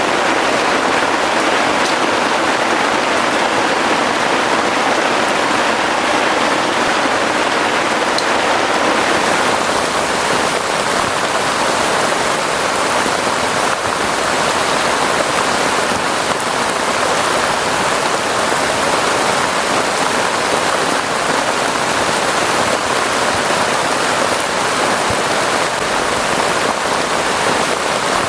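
Heavy rain falling steadily in a dense, even hiss, growing a little fuller and brighter about nine seconds in.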